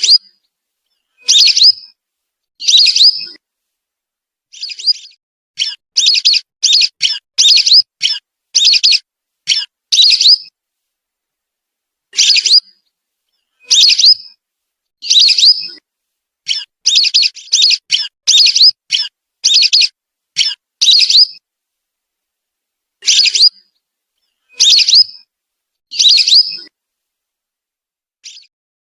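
Whistling ducks (belibis) calling in short, sharp, high whistles. They come in bouts, sometimes singly and sometimes in quick runs of about two to three a second, with short pauses between.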